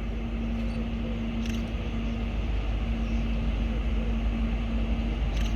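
Diesel passenger train's engine running: a steady low rumble with a constant hum, growing slowly louder.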